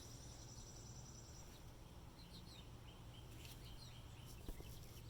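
Near silence: low steady hum with a few faint, short high chirps and ticks in the second half.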